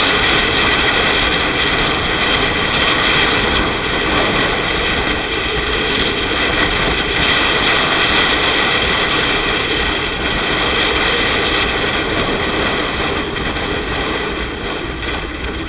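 Motorcycle riding at speed: steady engine drone mixed with wind rushing over the microphone, with a few steady high tones running through it.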